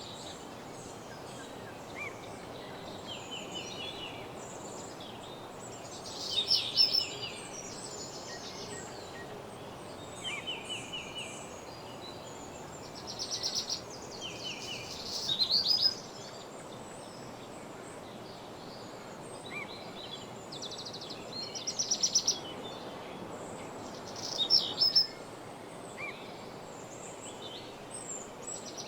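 Songbirds singing in a woodland, short phrases of rapid trilled notes coming every few seconds from more than one bird, over a steady background hiss.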